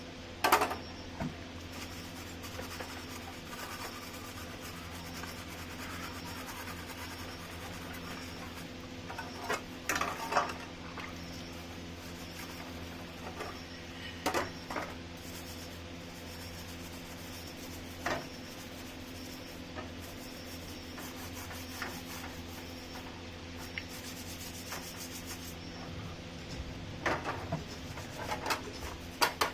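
Parts of a table fan being handled and rubbed during restoration, with a few sharp clinks and knocks, most of them near the end, over a steady low hum.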